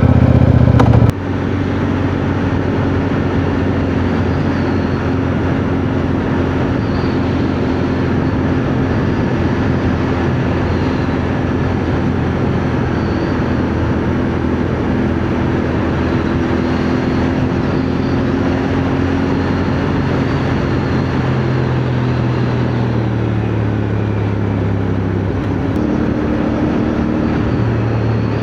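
CFMoto 450NK parallel-twin motorcycle engine running under way, under heavy wind rush on the helmet microphone. About a second in the sound changes abruptly from a loud low engine hum to the riding mix. The engine note shifts in steps near 20 s and again near 26 s.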